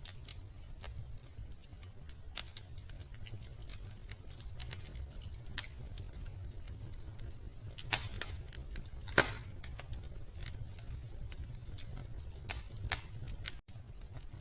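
Wood fire crackling in a fireplace: scattered sharp pops and snaps over a low steady rumble, with the loudest pops about eight and nine seconds in.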